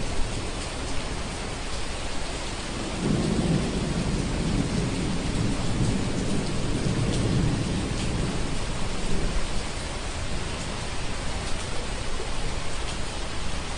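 Steady rain, with a roll of thunder that swells about three seconds in, rumbles low for several seconds, then fades away.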